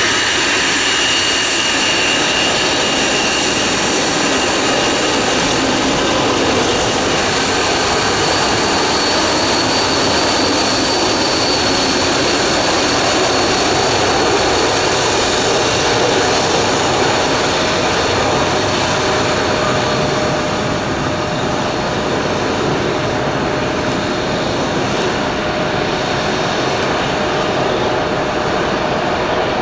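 The four turbofan engines of a BAe 146 airliner running at taxi power: a steady, loud rush with high whining tones over it. A lower steady tone comes in about halfway through.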